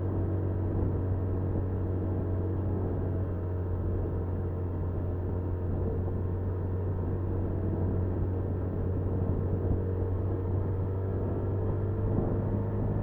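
Honda Super Cub 50's small single-cylinder engine running steadily while riding, under a constant low rumble.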